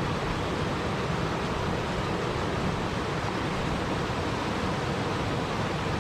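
Steady rushing water noise, even and unbroken, with no separate drops, splashes or other events.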